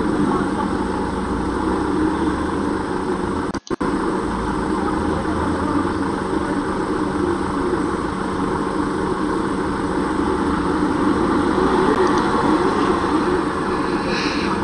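Dashcam audio from inside a car's cabin: a steady engine idle and street traffic noise. It drops out for a split second about four seconds in.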